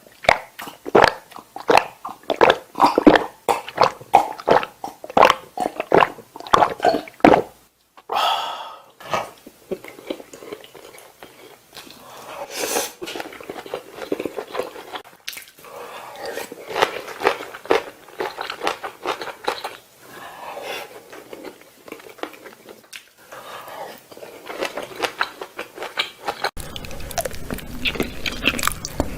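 Close-miked eating of Korean food: rapid crunchy bites and chewing for about seven seconds, then softer, more scattered chewing and crunching. The background changes abruptly about 26 seconds in.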